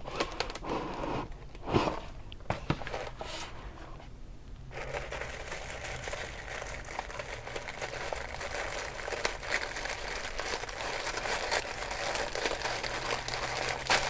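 A few knocks and rustles, then from about five seconds in a continuous crinkling of packaging being handled and unwrapped.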